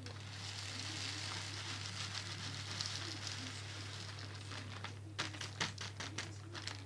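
Loose birdseed rustling and pattering as it is poured and shaken into a plastic bird feeder, followed about five seconds in by a quick run of clicks and knocks.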